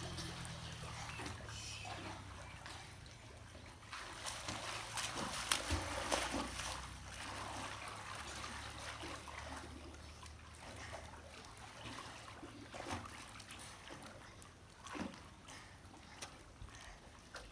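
Water splashing and sloshing in an open well where people are swimming, with a busier, louder run of splashes about four to seven seconds in. A low steady hum underneath fades out a little past the middle.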